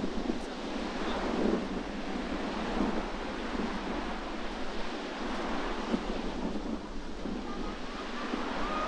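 Sea waves surging and washing on the shore, with strong wind blustering across the microphone.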